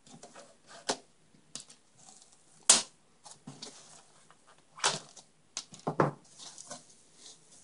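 Motherboard packaging being handled: cardboard box and plastic bag rustling and crinkling in irregular bursts, with sharp clicks, the loudest nearly three seconds in.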